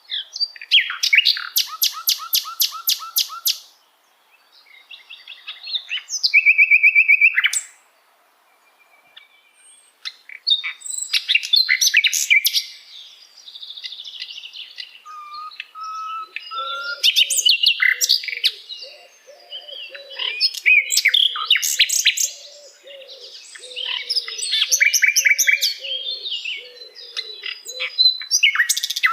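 Common nightingale singing: phrases of fast repeated notes and rattling trills, with one held whistle about six seconds in and short pauses between phrases.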